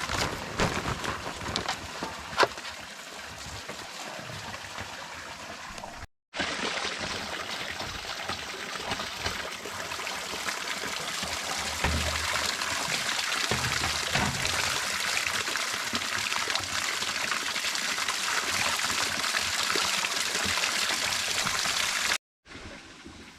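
Running water, a steady trickling, with a few sharp knocks in the first few seconds. It breaks off abruptly twice.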